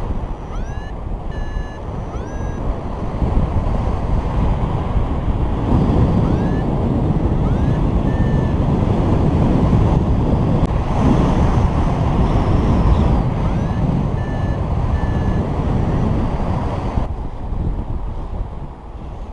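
Wind rushing over the microphone in flight, with short rising electronic beeps from a paraglider's variometer coming in small groups of two or three, the vario's signal of climbing.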